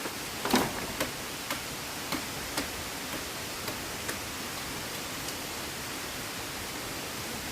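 Steady rushing of river water, with a run of sharp ticks or taps about twice a second, loudest about half a second in and then growing fainter.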